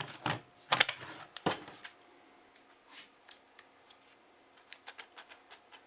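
Hard plastic clicks and knocks as a Ryobi 18-volt battery pack is slid into a cordless power tool, then a few faint clicks with no motor starting: the tool does not run on this battery.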